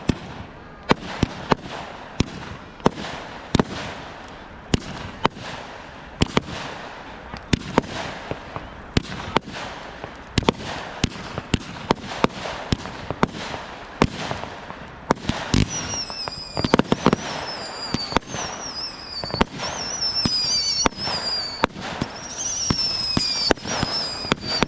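Fireworks going off in a steady string of sharp bangs and crackles. About two-thirds of the way in, shrill whistling fireworks join them, each whistle falling in pitch, and the barrage grows louder.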